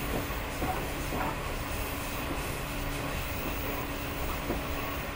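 JR 115-series electric train heard from inside motor car MoHa 115-362 while running between stations: a steady rumble of wheels on the rails with a constant low hum from the motor car's running gear.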